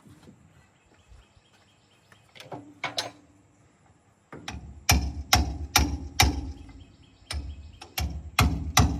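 Hammer blows on a chisel against a metal exhaust clamp and wire-reinforced hose: two light taps, then about four and a half seconds in a run of about ten sharp ringing strikes, roughly two a second.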